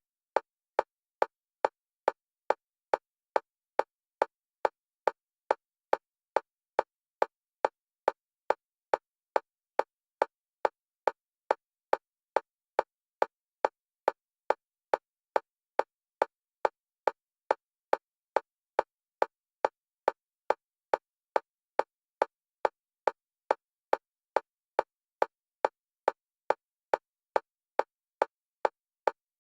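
Fast, steady metronome clicks for EMDR bilateral stimulation, alternating between the left and right stereo channels. Each click is short, with one mid pitch and the same loudness, about two and a half a second, evenly spaced.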